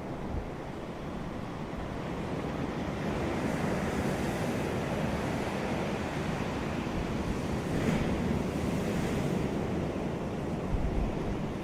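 Ocean surf breaking on a beach, a continuous wash of waves that swells and ebbs, with a stronger surge about eight seconds in. Wind rumbles on the microphone.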